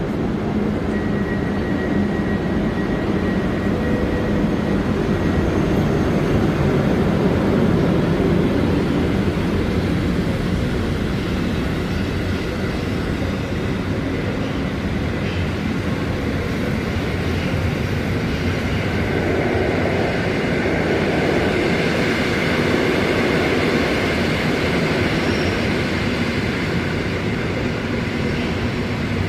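EP07 electric locomotive shunting with passenger coaches: a steady train rumble of running gear and traction equipment that swells and eases a couple of times.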